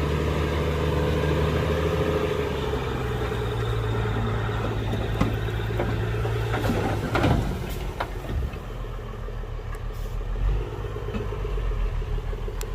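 Heavy diesel engine of earthmoving machinery running steadily. Its note drops slightly about two seconds in and dips briefly and recovers around seven seconds in, with a few light knocks.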